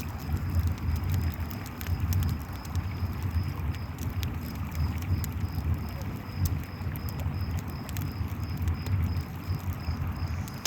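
Layered night ambience: a river flowing with a deep steady rumble, a campfire crackling with scattered sharp pops, and crickets chirping in a high pulse repeated a couple of times a second.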